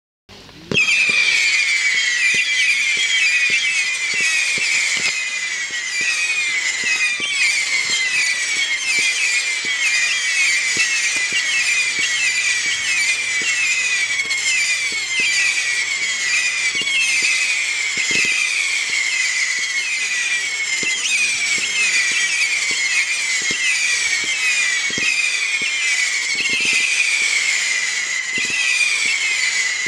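A 300-shot, 0.6-inch whistle fireworks cake (P7071 Fire Storm) firing rapidly: a dense stream of overlapping shrill whistles with light pops underneath, starting suddenly about half a second in and going on without a break.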